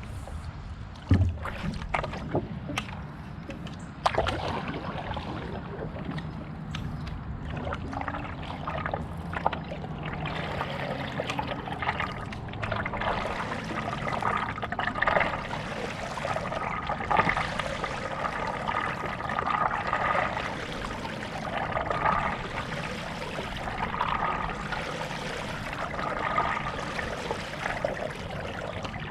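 Stand-up paddleboard paddle strokes in calm lake water: a rhythmic rush and drip of water about every two seconds, with a few sharp knocks in the first few seconds.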